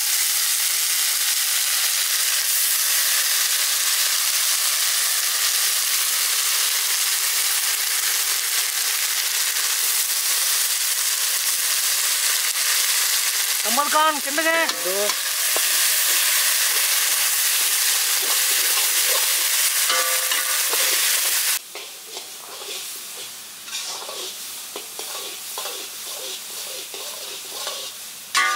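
Shallots, green chillies, garlic and crushed tomatoes frying in hot oil in a large iron kadai, a loud steady sizzle. About three-quarters of the way through the sizzle drops suddenly to a quieter frying sound with a metal ladle scraping and tapping the pan as the mixture is stirred.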